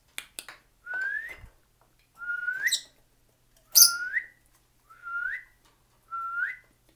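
A person whistling five short rising notes, evenly spaced, to call a pet cockatiel. Short, sharp cockatiel chirps come in between, the loudest about four seconds in.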